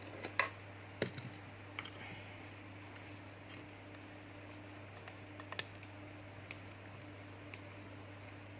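Scattered small clicks and taps of repair tools handling a phone's circuit board, over a steady electrical hum from bench equipment.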